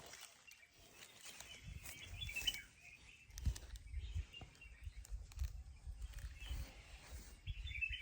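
Outdoor ambience with faint, scattered bird chirps and an uneven low rumble underneath from about a second and a half in.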